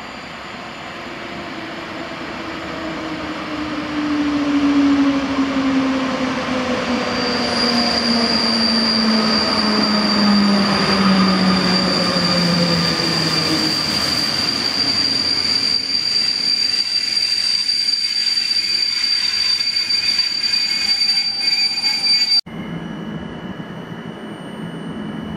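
PKP Intercity train hauled by a Newag Griffin EU160 electric locomotive running through the station, coming closer over the first few seconds. The locomotive's whine falls steadily in pitch and a high steady wheel squeal sets in after about seven seconds. Both cut off abruptly near the end, and a quieter rumble of the passing coaches follows.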